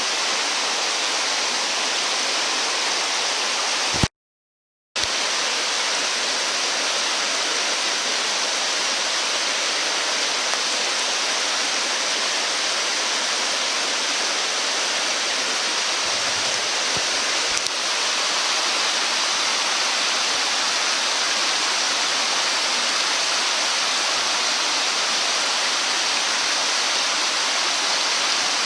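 Steady rushing of flowing stream water with no change in level. It breaks off to dead silence for about a second, four seconds in.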